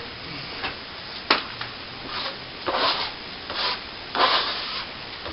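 A plastering trowel scraping across cornice cement on a plasterboard ceiling patch in several short strokes, with a sharp click about a second in.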